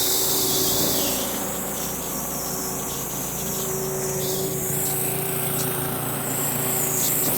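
Steady mechanical hum with a constant low tone and a higher humming tone under an even hiss, like running machinery.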